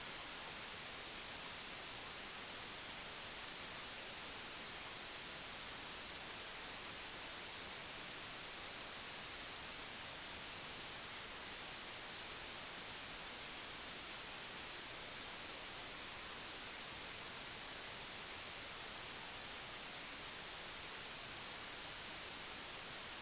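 Steady, even hiss like static, unchanging throughout, with no animal calls or other distinct sounds.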